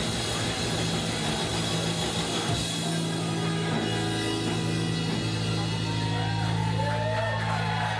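Rock band playing with electric guitar, bass and drums, holding a long ringing chord, with a few sliding notes near the end.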